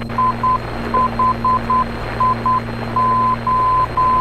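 ILS localizer Morse identifier in the headset audio: a steady 1 kHz tone keying dot-dot, dot-dot-dot-dot, dot-dot, dash-dash-dash (I-HIO), the ident of the Hillsboro runway 13 right localizer. Underneath runs the steady drone of the twin piston engines.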